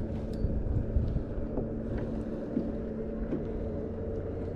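Water and wind noise around a kayak being towed by a hooked fish: a steady low rumble with a few faint clicks.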